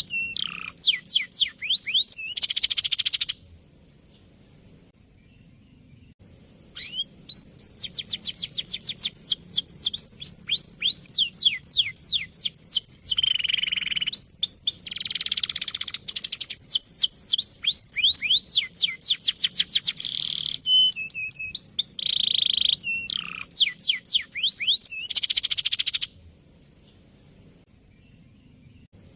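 Male domestic canary singing a rolling song: long phrases of rapid trills made of quick falling whistled notes, mixed with harsher buzzy passages. The song breaks off for a few seconds after about three seconds and again near the end.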